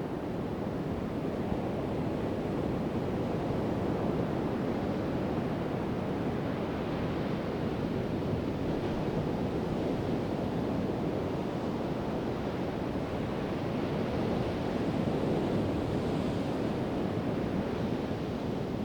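Pacific Ocean surf: a steady rush of waves breaking and washing up on the shore, swelling a little twice.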